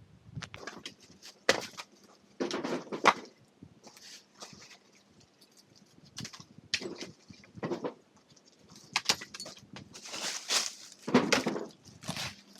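Pieces of firewood being handled, with irregular knocks and clatter of wood on wood, several louder clunks among quieter shuffling.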